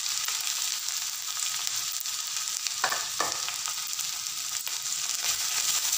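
Hot ghee sizzling steadily in a kadhai, with cumin, fennel, crushed coriander, chopped green chilli, ginger and garlic frying in it. Two short crackles come about three seconds in.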